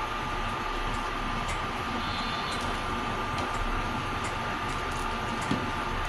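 A pot of red lentils (masoor dal) boiling on the stove: a steady rushing hiss with a faint, constant whine and a few small scattered pops.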